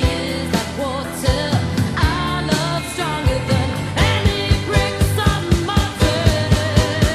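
Studio recording of a 1980s pop song: a male lead voice singing over a band with a steady drum beat, bass and keyboards.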